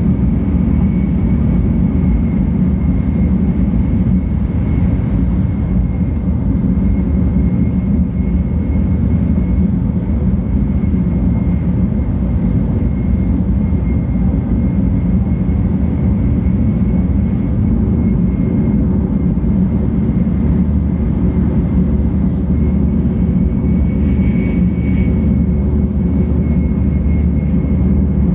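Interior noise of a 700 Series Shinkansen running steadily, heard inside the passenger cabin: an even, loud low rumble from the running gear and rushing air, with a thin steady high tone running through it.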